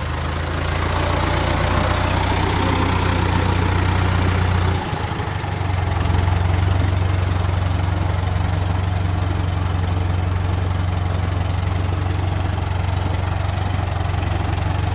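Old Ford tractor engine running steadily, with a brief dip about five seconds in before it settles back to the same even running.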